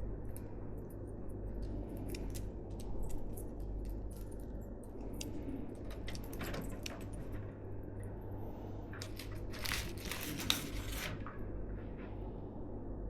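Hands handling PC parts: scattered small clicks, taps and rustles of plastic and metal, with a busier stretch of scraping and rustling about three-quarters of the way through that ends in one sharp click, over a steady low hum.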